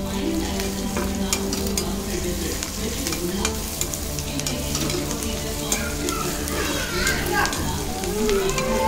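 Chopped onions and green chillies sizzling in hot oil in a kadai while a perforated spatula stirs them, with frequent small clicks and scrapes of the spatula against the pan.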